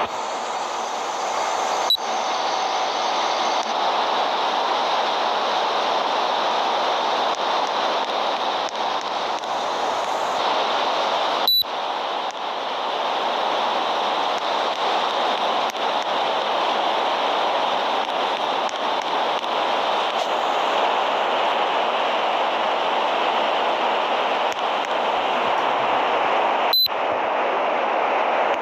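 Air conditioner blowing air: a steady, even rushing hiss, with a brief sharp click three times.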